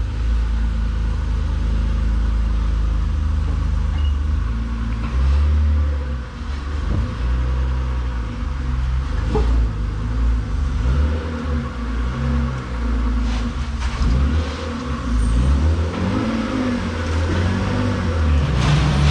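BMW E36 drift car's engine running hard and revving, its pitch climbing and dropping over and over from about six seconds in.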